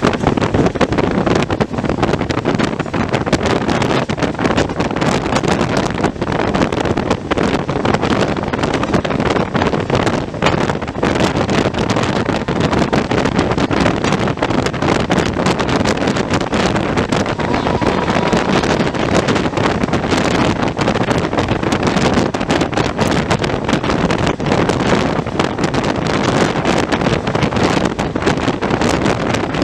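Moving express train: a loud, steady rush of wind buffeting the microphone over the rattle of the running train.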